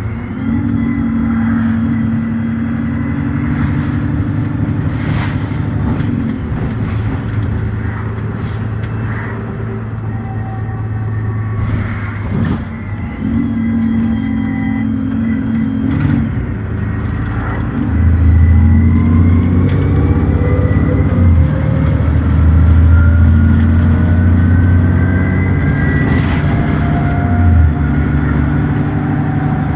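Dennis Trident ALX400 double-decker bus's diesel engine running as the bus slows. About 18 seconds in, the automatic gearbox kicks down and the engine goes to full throttle, louder, pulling hard with rising pitch and a couple of gear changes as the bus accelerates.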